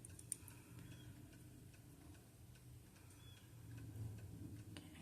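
Near silence: room tone with a low hum and a few faint, irregular small clicks, one sharper click about a third of a second in.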